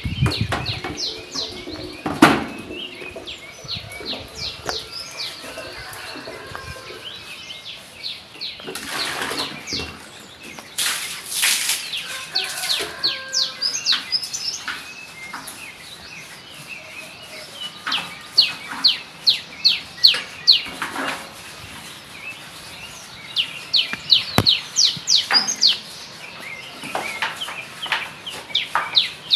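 Stiff brush scrubbing a floor with soapy water, in runs of quick back-and-forth strokes at about three to four a second. A few longer, louder swishes come around the middle.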